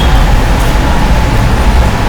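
Loud, steady low rumble of background noise.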